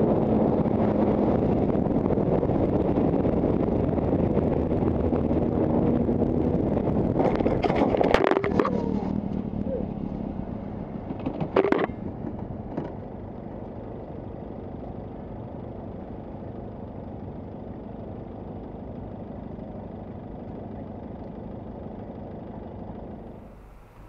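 Motorcycle running with a steady engine and road rumble, broken by a cluster of sharp clattering knocks about eight seconds in and another about twelve seconds in. After these the sound settles to a quieter, steady hum.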